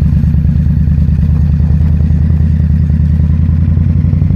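Indian Scout Bobber's V-twin engine running at a steady pitch while the motorcycle is ridden, heard from on the bike.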